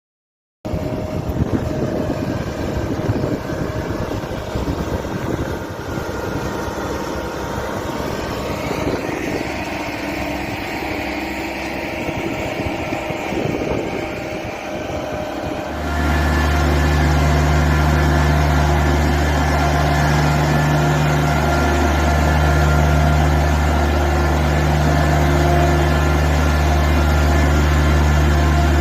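Kioti CS-2610 compact tractor's diesel engine running as it tows a light aircraft. About halfway through, the sound turns abruptly louder and steadier, into a deep, even hum.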